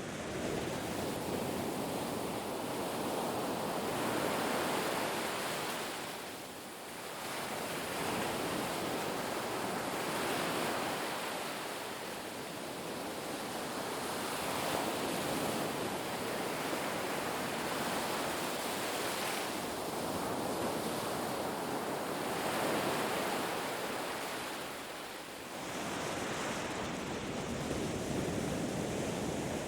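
Ocean surf breaking on a beach: a continuous rushing wash of waves that swells and ebbs, easing briefly about a quarter of the way in and again near the end.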